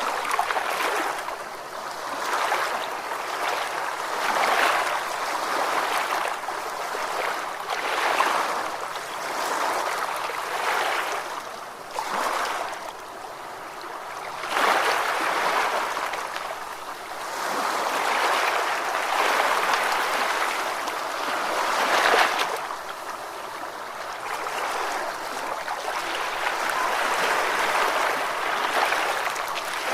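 Ocean waves washing onto a shore: a continuous rushing wash that swells and ebbs every couple of seconds, with a few larger surges.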